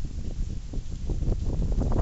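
Hurricane wind gusting and buffeting the microphone: a low, uneven rumble that swells and dips.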